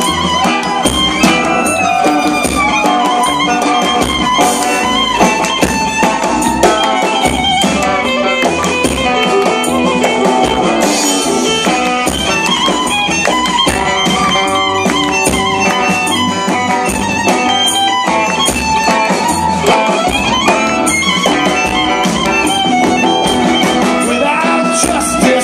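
Live band playing an instrumental break between verses of a klezmer-style song, full and steady throughout.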